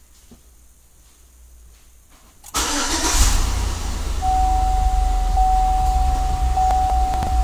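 A Chevy Tahoe's V8 engine, heard from inside the cab, starts suddenly about two and a half seconds in and then runs steadily. A steady high tone joins about four seconds in.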